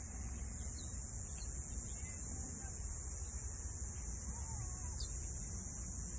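Steady outdoor background noise with a low rumble and a high hiss, with a few faint bird chirps a little past the middle.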